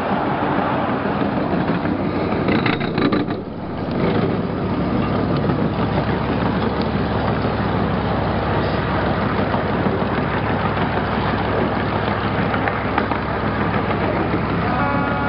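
Steady rumble and clatter of a 12-inch gauge ride-on train's wheels on the rails, heard from an open passenger car, with a quick run of sharp clicks about three seconds in.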